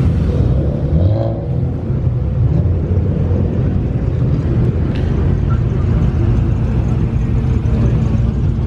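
Car engine running, a steady low sound throughout.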